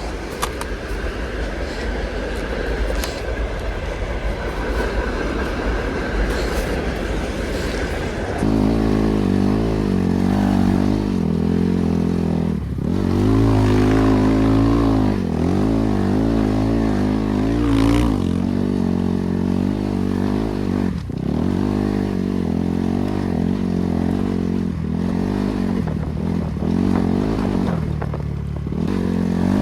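BRZ MX8 motorcycle's NB300 engine running under way, its revs rising and falling again and again. For the first eight seconds or so the engine is half buried in rough wind noise, then it comes through clearly and loudly.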